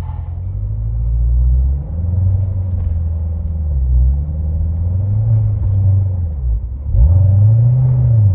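Chevrolet Corvette C7 Z06's supercharged 6.2-litre LT4 V8 revving up and down at low revs in repeated surges, as the car struggles for traction on a snowy incline. The last surge, near the end, is the loudest.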